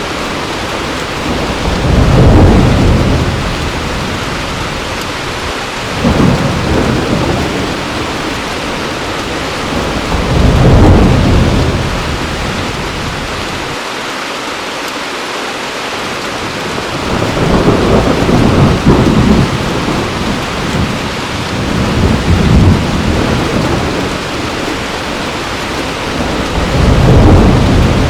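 Heavy rain falling steadily, with about six low rolls of thunder rumbling in and fading every few seconds over the rain.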